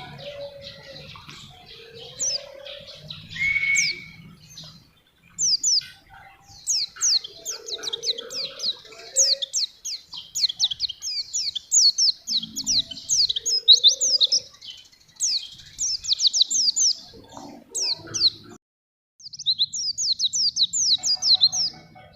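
A white-eye (pleci) singing a long, rapid run of high chirps, each sliding quickly downward, starting a few seconds in, with a short break near the end.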